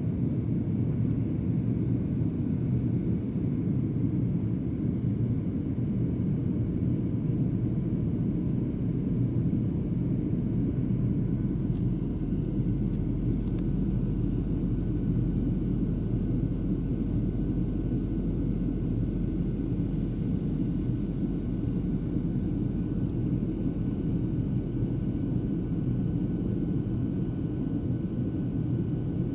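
Jet airliner cabin noise: a steady low rumble of engines and airflow during a holding pattern, with a few faint steady tones above it.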